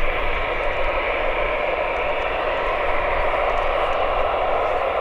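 Airbus A320-214 airliner's CFM56 jet engines running with a steady, even rush of engine noise and a low rumble beneath.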